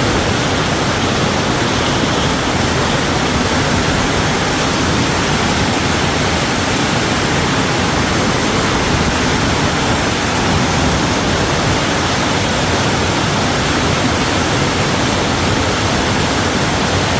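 Very heavy rain pouring down in a strong wind: a loud, steady rushing hiss with no letup.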